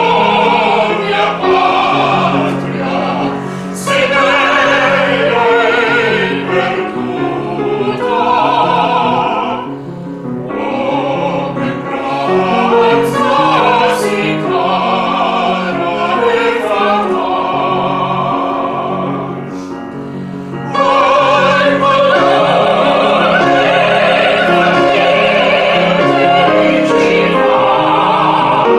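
Music: classical-style singing with vibrato over accompaniment, in long held phrases with short breaks about ten and twenty seconds in.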